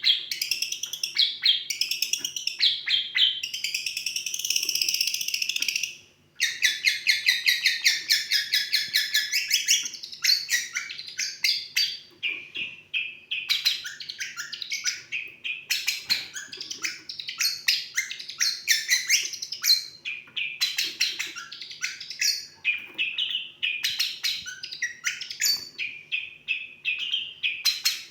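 Long-tailed shrike (cendet) singing a long, rapid chattering and trilling song that mimics a lovebird's complex twitter, with one short break about six seconds in. A faint low hum lies underneath.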